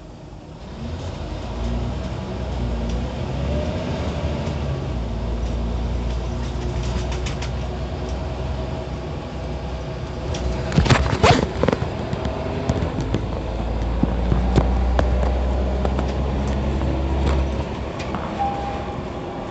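Scania CN94UB OmniCity city bus heard from inside while driving, its diesel engine pulling steadily under load. A burst of rattling and clattering comes about halfway through. A heavy low rumble builds afterwards and drops away shortly before the end.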